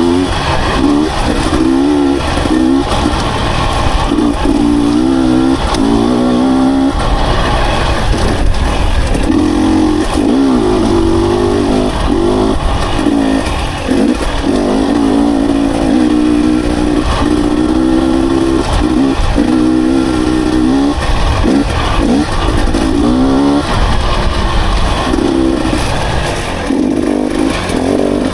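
Dirt bike engine being ridden on a trail, its pitch rising and falling again and again as the throttle is opened and closed through gear changes.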